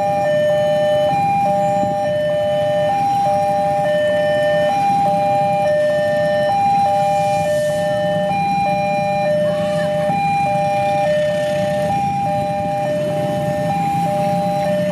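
Railway level-crossing warning alarm sounding a steady two-tone hi-lo signal, a higher and a lower tone alternating about every three-quarters of a second, which warns that a train is approaching. A low rumble runs underneath.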